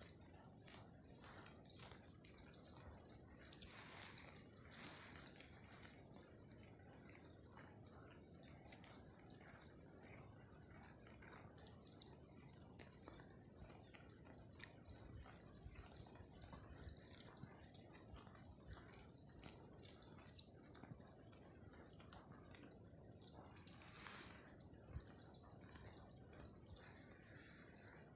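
Faint chirping of small birds, many short calls repeating throughout, over a quiet open-field background with a few soft clicks.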